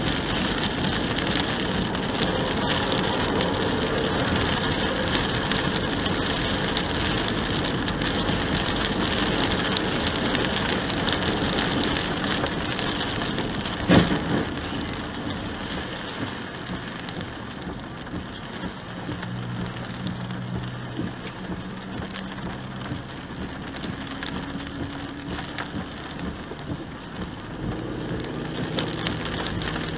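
Rain and tyre spray on a wet highway heard from inside a moving car, a steady hiss throughout, with a single sharp knock about halfway through. After the knock the hiss grows quieter and a low steady hum comes through.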